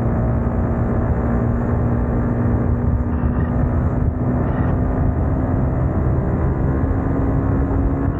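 Yamaha MT-15's single-cylinder engine and exhaust running steadily while the motorcycle is ridden, with wind rushing over the microphone. The engine note holds almost level, edging slightly higher about halfway through.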